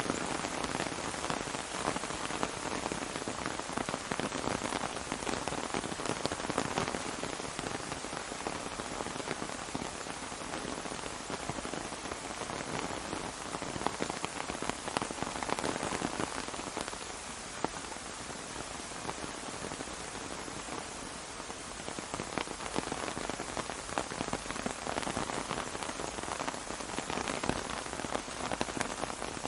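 Steady rain falling on an umbrella, a dense hiss of many close drop impacts that eases a little midway and then picks up again.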